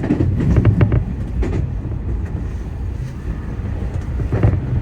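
Keio Inokashira Line electric train running along the track, heard from on board: a steady low rumble with a few clicks of the wheels over rail joints, bunched near the start and again near the end.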